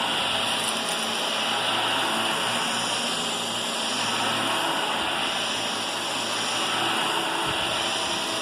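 Vacuum cleaner running steadily, a constant motor noise with a low hum underneath.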